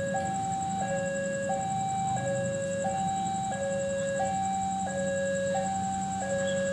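Railway level-crossing warning alarm sounding a two-tone electronic signal: a higher and a lower tone alternate evenly, each held about two-thirds of a second, which warns that a train is approaching. A steady low hum runs beneath it.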